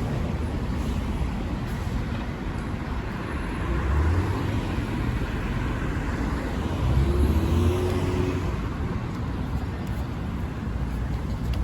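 Road traffic on a busy city avenue: cars and buses passing with engine rumble and tyre noise, swelling louder about four seconds in and again around seven seconds in, when a short wavering engine tone rises and falls.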